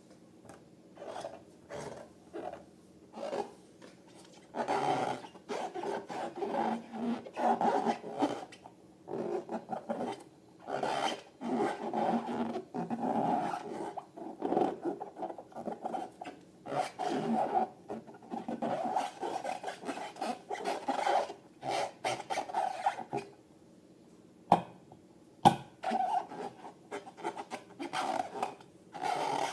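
Glossy slime being squished and stretched by hand: irregular runs of short squelching, rubbing strokes, with two sharp clicks about a second apart late on.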